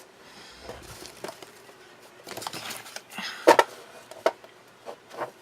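Cardstock and a plastic scoring board being handled on a craft table: paper rustling and sliding, with scattered taps and knocks, the loudest about three and a half seconds in.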